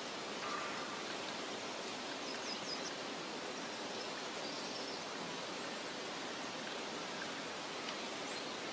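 Meadow ambience: a steady, even hiss of soft wind, with a few faint bird chirps, including a quick run of four high chirps about two and a half seconds in.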